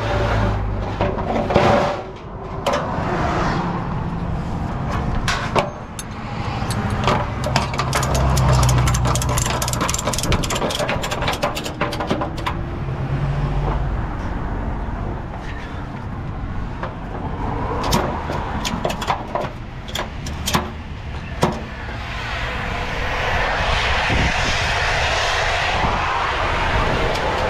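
Heavy truck running, a steady low rumble with many sharp clicks and knocks through it, and a hissing rush building up near the end.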